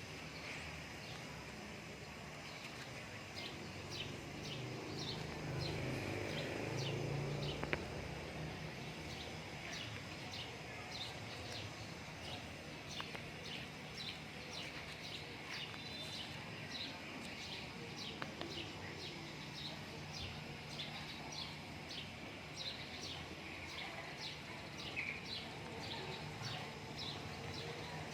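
Small birds chirping over a steady outdoor background, short high chirps repeating many times throughout. A low rumble swells for a few seconds near the start.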